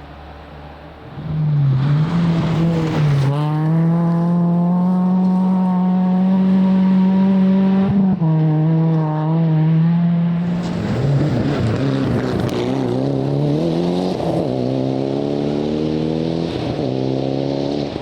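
Rally car engine under full throttle as the car comes in, with shifts at high revs, then lifting off and changing down about ten seconds in before accelerating hard again with the revs climbing.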